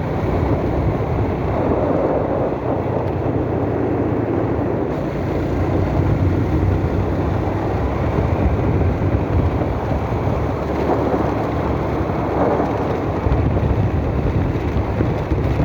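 Steady wind rush on the microphone over the road and engine noise of a moving vehicle.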